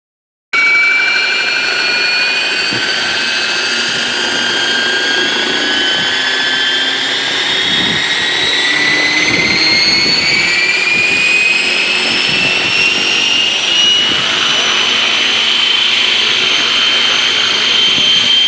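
Remote-control helicopter's motor and rotor running, a loud high whine that climbs slowly and steadily in pitch as it speeds up.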